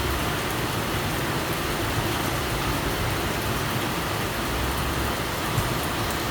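Steady rain falling, an even hiss with no let-up, with a low rumble underneath that swells about four and a half seconds in.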